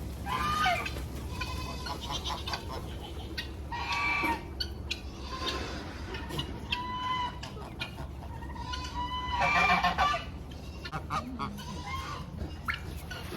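A flock of poultry calling, a mix of short clucks and longer drawn-out calls, loudest about four seconds in and again near ten seconds.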